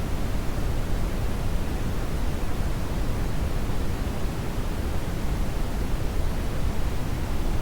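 Steady synthetic brown noise: an even, deep rushing hiss, strongest in the bass, with no tones or events.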